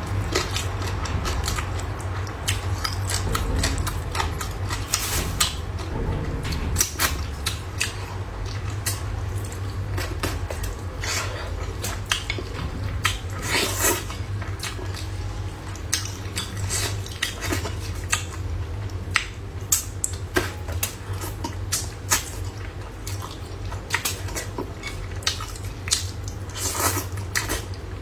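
Eating sounds: utensils clicking and tapping against bowls and plates as someone eats, in scattered sharp clicks over a steady low hum.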